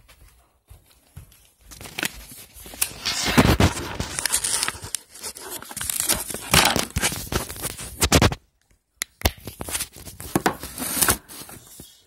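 A sheet of paper being folded and creased by hand, crinkling and rustling in bursts, with a brief pause about two-thirds of the way through.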